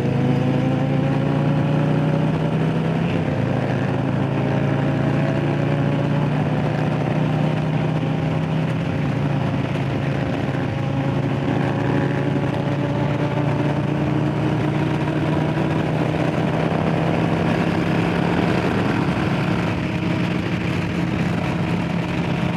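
Harley-Davidson Low Rider S's Milwaukee-Eight V-twin running under way, its pitch climbing slowly over the first several seconds and then holding steady at cruising speed.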